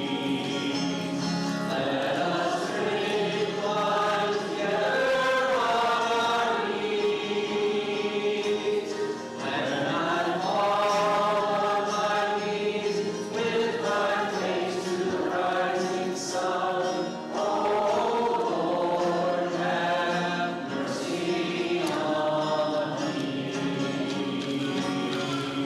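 A group of voices singing a church hymn in sustained phrases, with short breaks between phrases about nine and seventeen seconds in.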